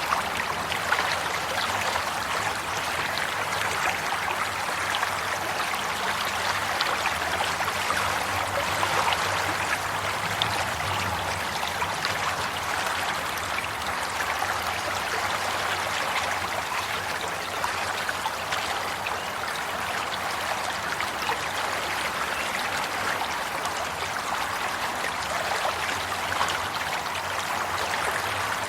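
Water flowing steadily over rocks like a stream or small cascade: a continuous splashing and babbling rush with fine crackling detail.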